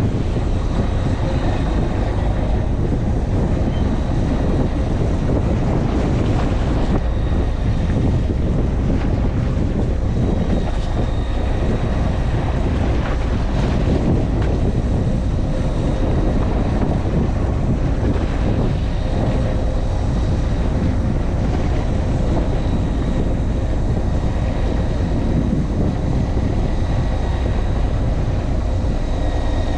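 A fishing boat's engine running steadily, with a deep rumble and a faint steady whine, and wind buffeting the microphone.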